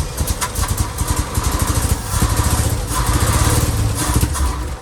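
1966 International Harvester BG 241 inline-six engine being cranked by the starter and firing unevenly during a first start attempt after 24 years of storage. It stops near the end.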